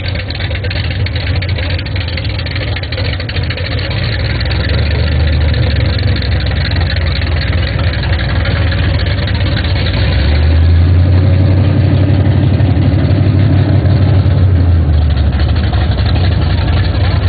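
Pickup truck engine idling with a deep, steady rumble, growing louder about ten seconds in.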